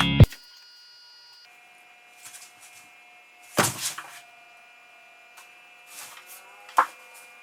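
Music cuts off at the start, then a quiet room with a faint steady hum and a few brief knocks or rustles, the loudest about three and a half seconds in and another near the end.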